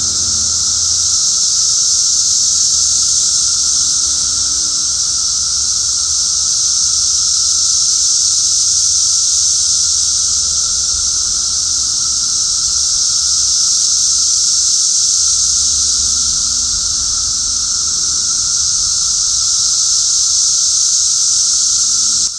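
Loud chorus of cicadas: a steady, shrill, hissing drone that swells and eases slightly in slow waves.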